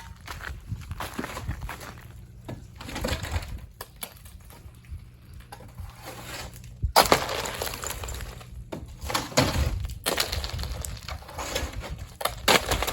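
Ice from an ice storm cracking and crunching in a string of irregular sharp breaks, the loudest about seven seconds in and another near the end.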